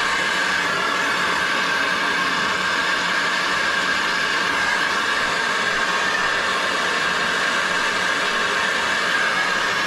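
Soldering torch burning steadily with an even hiss, heating copper water pipe fittings for soldering.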